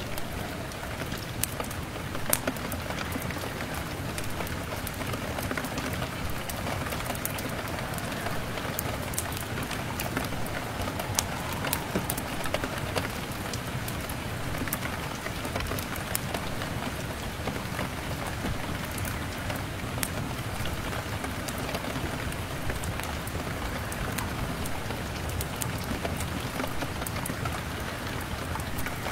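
Steady rain falling on a window pane, with many scattered sharp clicks and ticks through it.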